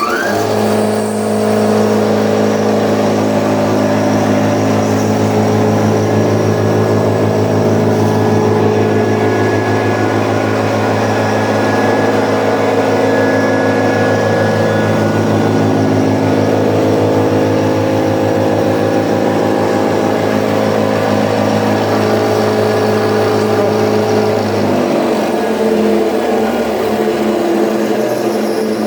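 FS-1 milling machine running on its second spindle speed after spinning up, a steady motor hum and whine with several steady tones. About 25 seconds in the low hum drops away while the higher running sound carries on.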